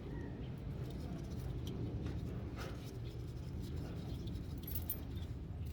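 A few light metallic clicks and taps of hand tools, sockets being handled while changing a spark plug, over a steady low background rumble.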